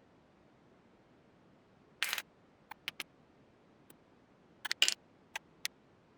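Small hard parts clicking and tapping, in a short clatter about two seconds in and a louder one near five seconds, with single sharp clicks between and after.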